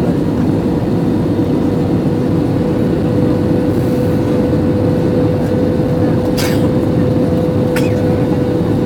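Airliner cabin noise during landing: the steady, deep roar of engines and rushing air with a steady hum, and a couple of brief rattles near the end.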